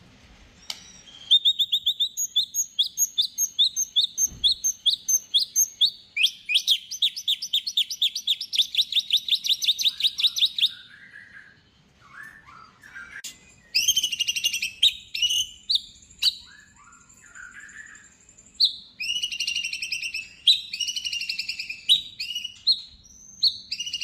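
White-rumped shama (murai batu) singing loudly: a run of rapid repeated high notes, then a fast trill, then varied whistled phrases broken by short pauses.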